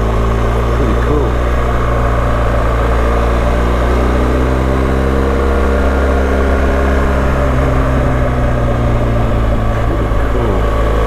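BMW GS Adventure motorcycle's boxer-twin engine running steadily while cruising, with wind and road noise.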